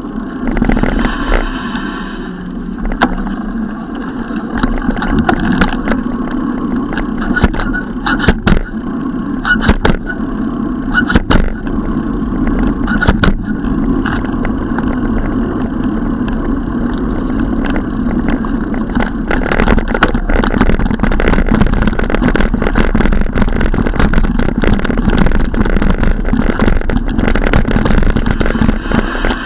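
Continuous rumble of riding noise from a bicycle ride, with many sharp clicks and rattles scattered through it, thickest in the first half.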